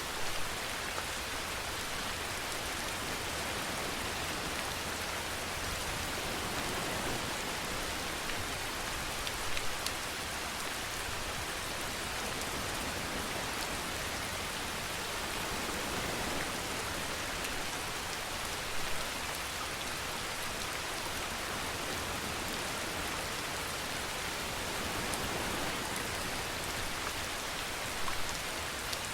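Steady rainfall, a dense even hiss of drops on a surface, with a brief louder spatter about every nine seconds.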